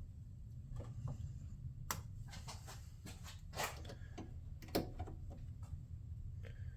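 Scattered small clicks and taps of plastic trim pieces and fasteners being handled and fitted, a few louder ones among them, over a low steady hum.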